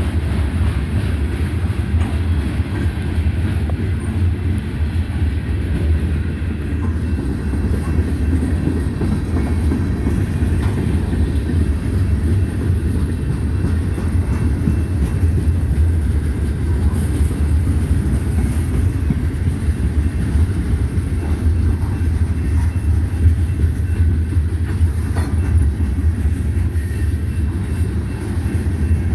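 Manifest freight train rolling past, a steady heavy rumble of its cars' wheels on the rails.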